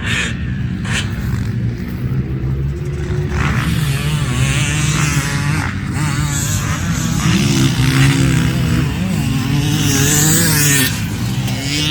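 Motocross bike engine being ridden hard, its revs rising and falling again and again as the rider works the throttle.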